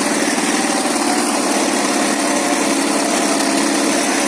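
Ural motorcycle's flat-twin engine running at a steady pace while riding off-road.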